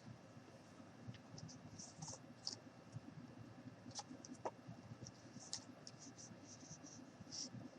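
Faint scratchy rustling of rope being wrapped and pulled tight around a wine glass, with a few light clicks scattered through.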